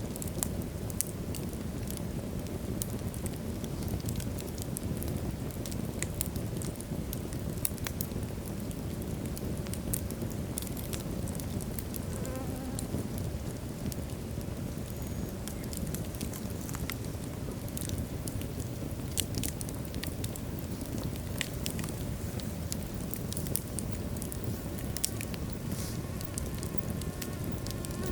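Wood fire burning in a fireplace: a steady low rumble of flames with scattered sharp crackles and pops from the logs, and a brief faint whistle about halfway through.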